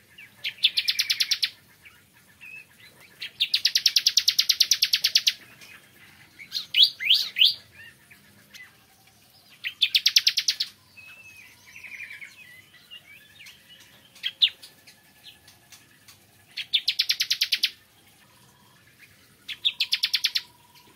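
Bar-winged prinia (ciblek kristal) singing: five fast, rapidly pulsed trills of about one to two seconds each, a few seconds apart, with a few sharp chirps between them near the middle.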